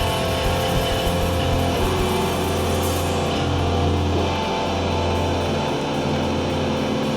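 Hardcore punk band playing loud through a PA: distorted guitars and bass with crashing cymbals. About three seconds in, the cymbals stop and the guitars and bass are left ringing in a sustained low drone.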